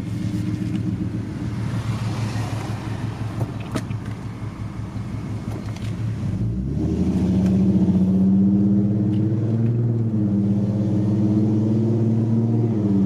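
2008 Ford Mustang 4.0 V6 exhaust with long-tube headers, cat deletes, X-pipe and two Cherry Bomb glasspacks, pulling away on slow, light throttle. A low, steady drone grows louder about six and a half seconds in and holds there, topping out around 2,500 rpm.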